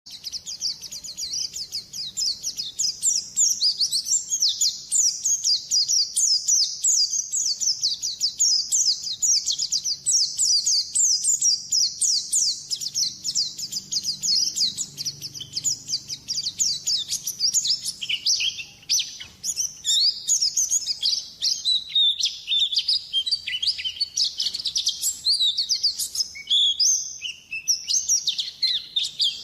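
White-eye (pleci) twittering song, a recorded lure call: a dense, continuous run of rapid, high-pitched falling chirps, becoming more varied and a little lower from a little past the middle.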